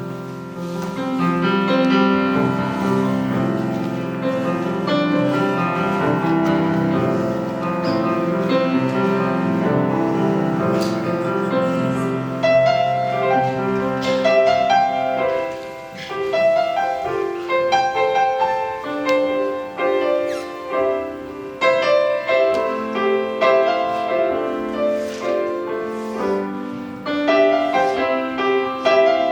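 Piano playing an offertory: slow, full chords at first, turning to lighter, separate notes about halfway through.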